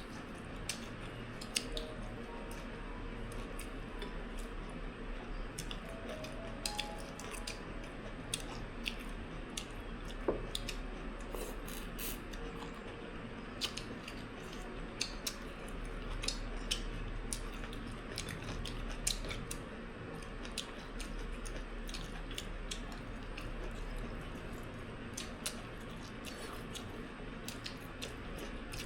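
Chopsticks and spoons clicking and scraping against bowls and plates, with chewing, at irregular intervals over a steady low hum.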